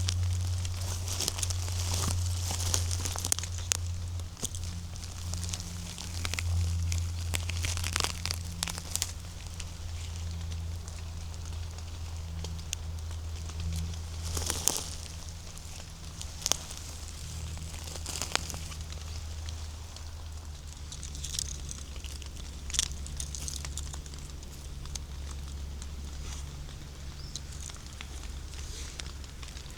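Footsteps crunching and rustling through dry leaves, twigs and forest litter, with a few sharper cracks of snapping twigs. A steady low rumble runs underneath.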